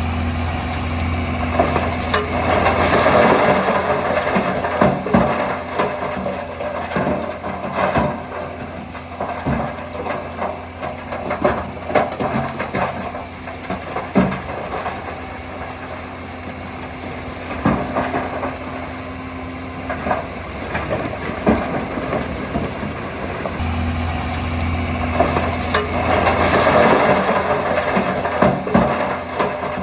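Shantui DH17C3 crawler bulldozer's diesel engine running, with frequent clanks and knocks. The engine grows louder twice, a few seconds in and again near the end, as it takes load.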